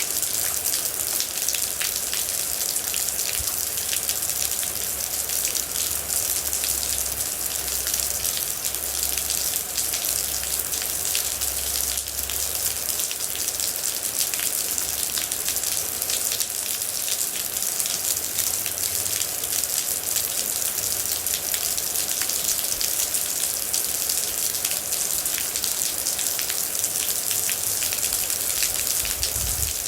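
Steady heavy rain falling on a surface, a dense even hiss with many fine individual drop ticks throughout.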